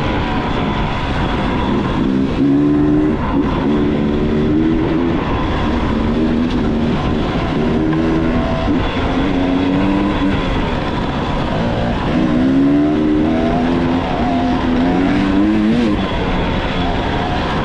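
Dirt bike engine being ridden hard: the pitch climbs under throttle, falls back and climbs again over and over as the rider works the throttle and shifts, over a steady low rumble.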